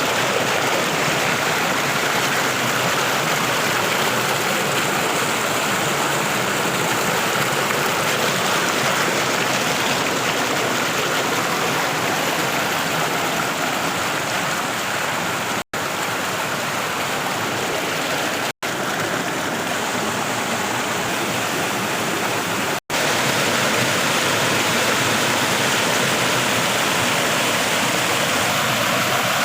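Running water of a stream rushing steadily. It cuts out for an instant three times, about halfway through and twice more over the next several seconds.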